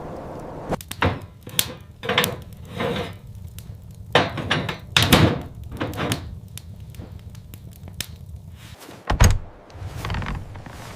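A series of irregular knocks and thuds, with a heavier low thump about nine seconds in, over a steady low rumble.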